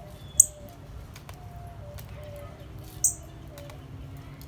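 Two sharp, high chirps from a small songbird, about two and a half seconds apart, over softer low bird calls in the background.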